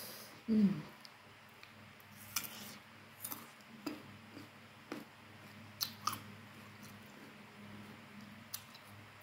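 Close-up mouth sounds of someone chewing slices of young Indramayu mango dipped in petis: scattered wet clicks and smacks. A short hum of the voice comes about half a second in.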